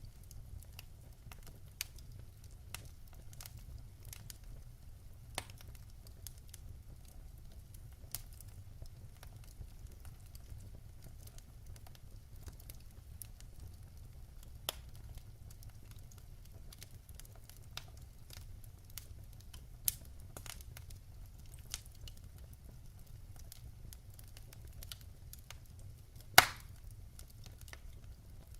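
Fire burning in a fireplace: a steady low rumble with scattered sharp crackles and pops, one much louder pop near the end.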